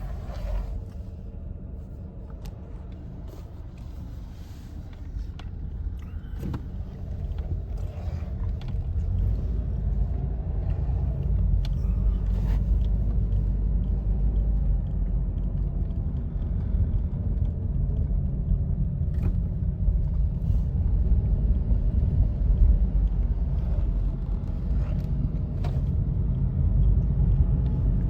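A car's low, steady rumble that grows louder about a third of the way in.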